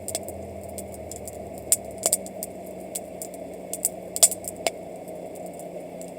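Wood campfire crackling, with sharp, irregular pops over a steady background hiss.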